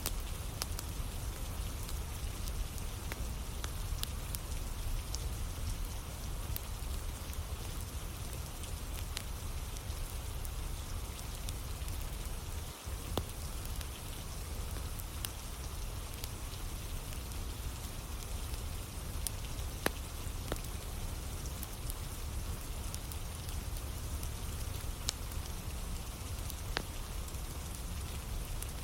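Steady rain falling, with scattered sharp crackles from a wood campfire burning in the rain.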